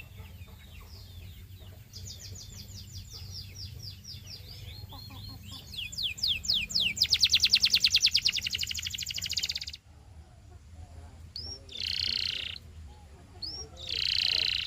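Canary singing: a run of repeated sweeping high notes that speeds up into a loud, fast trill and cuts off suddenly about two-thirds of the way through, followed by a couple of short buzzy phrases.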